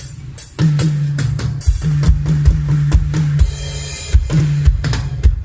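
Live orkes band's drum kit played through a PA system during a sound check: a steady kick-drum beat with snare and a cymbal wash, over a low bass line. The drumming stops at the very end.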